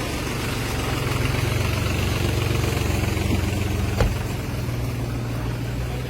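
Engine idling with a steady low hum, and one sharp click about four seconds in.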